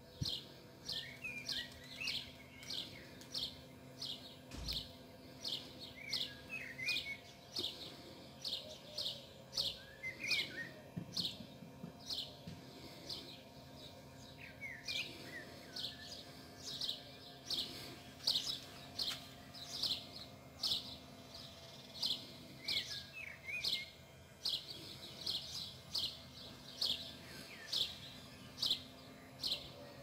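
Birds calling: one bird repeats a short, high, falling chirp over and over, a little more than once a second, while softer twittering calls come in every few seconds. A faint steady hum sits underneath.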